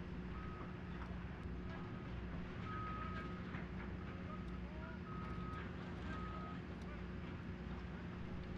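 Heavy equipment engine running steadily with a low hum. Over it come scattered metallic clanks and several short, steady high beeps at uneven intervals.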